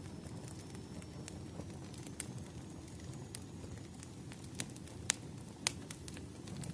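Burning firewood crackling: a steady low rush of flame with scattered sharp pops and snaps, the louder ones in the second half.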